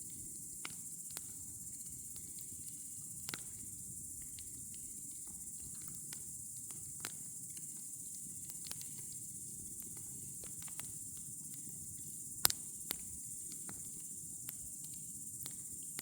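Campfire crackling: scattered sharp pops and snaps over a low steady rustle of burning wood, with the loudest snap about twelve seconds in and a second one just after. A steady high hiss sits above it.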